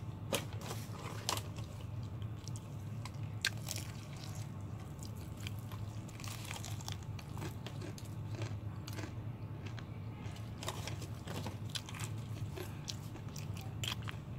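Close-up eating sounds of KFC fried chicken and a soft bun being bitten and chewed: crisp crunches and clicks scattered through steady chewing, the sharpest few in the first three or four seconds, over a steady low hum.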